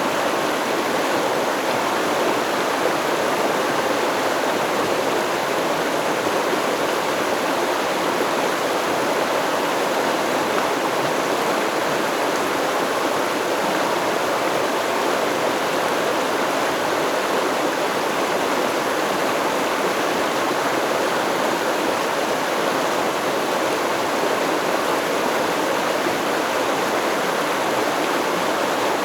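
Steady rush of flowing stream water over rocks, an even, unbroken sound with no distinct splashes.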